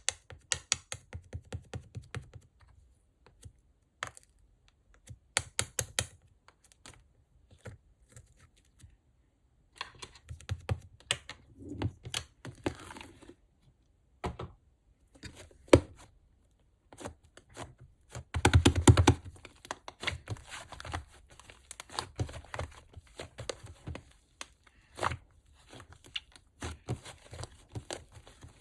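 Yellow and pink slime being squeezed and poked by hand, giving quick runs of sticky clicks and small crackling pops with short pauses between, and a louder, denser squish about two-thirds of the way in.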